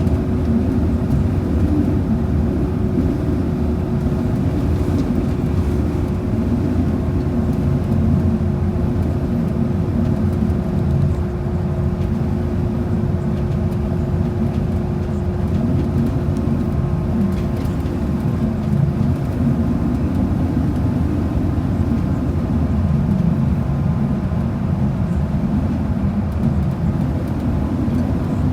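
Transit bus under way, heard from inside the cabin: a steady low rumble of engine and road noise with a steady hum above it.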